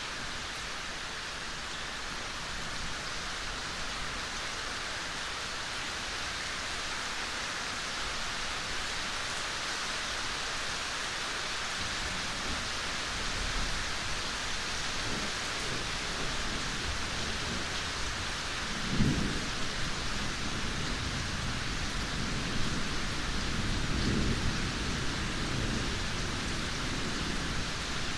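Steady rain falling in a forest, an even hiss of drops. From about halfway through, a low rumble of thunder builds beneath it and swells twice near the end.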